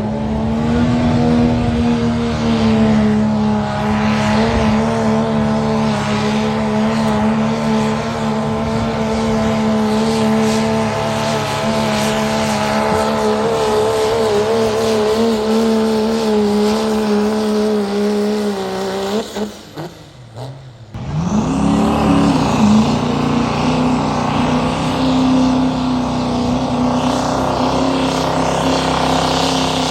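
High-horsepower truck engine held at high revs, its note steady and sagging slightly after a long pull. About two-thirds of the way through the sound drops out for a second or two, then an engine is heard at high revs again.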